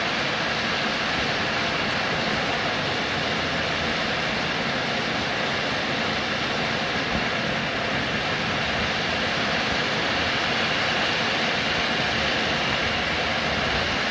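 Steady rain falling, a continuous even hiss with no breaks or single drops standing out.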